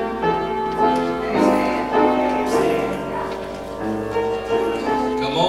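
Keyboard music with held notes in slowly changing chords.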